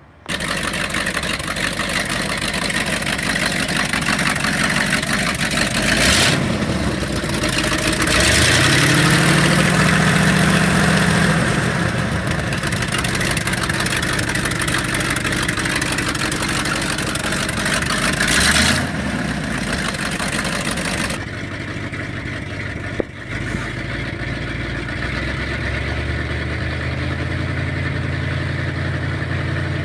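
1976 Ford 1-ton dump truck's engine coming to life suddenly, then revved up twice, the second rev held for a few seconds, before it settles to a steady idle about two-thirds of the way in. A single sharp click near the end of the revving.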